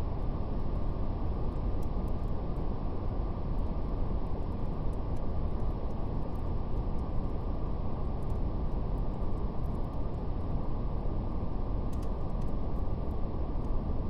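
Steady brown noise: a deep, even rumble with no highs, unchanging throughout. Faint, scattered crackles of a fire sit on top of it.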